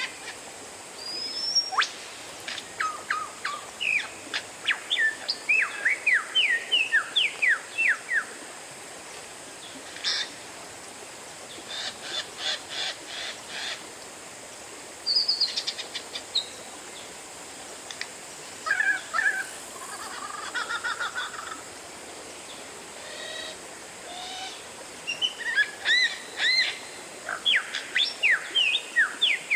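Oriental magpie-robin (kacer) singing: bursts of rapid, sharp, downward-sliding whistled notes and chattering phrases, separated by short pauses.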